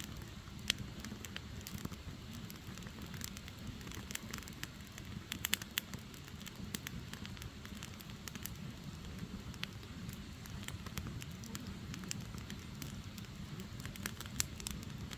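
Firewood burning, with irregular sharp crackles and pops over a low steady rumble of the fire. A quick cluster of pops comes about five and a half seconds in.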